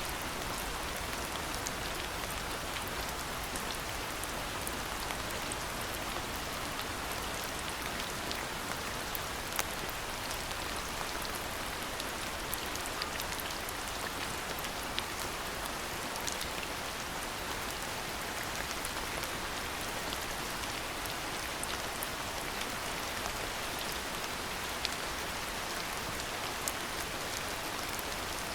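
Steady rain falling, with many scattered drops ticking on nearby surfaces.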